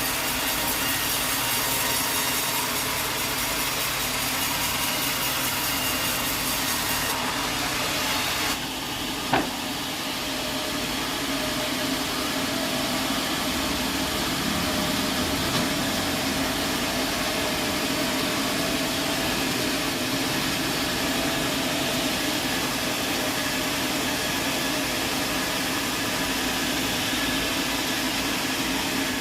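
Sawmill saw cutting through wood, a continuous running and cutting noise. About eight seconds in, the hissy top of the sound drops away, and a single sharp knock comes about a second later.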